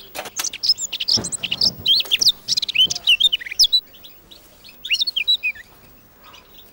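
Caged songbird singing: a fast run of high chirps and trills for nearly four seconds, then a shorter phrase about five seconds in.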